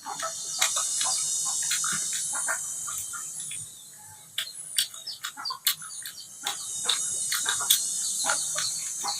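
Outdoor animal ambience: a steady high-pitched insect drone that swells for a few seconds, fades about four seconds in and comes back about two seconds later, with birds chirping over it. Many short clicks are mixed through it.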